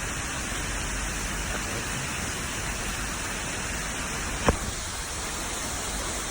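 Steady rushing of a waterfall, an even hiss with no break. About four and a half seconds in there is a single sharp tap.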